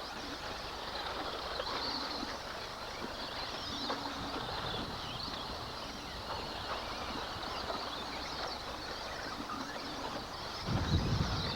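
Several electric RC off-road trucks racing at once, their motors making a shifting mix of high whines over a steady rush of noise. Low rumbling buffets come in near the end.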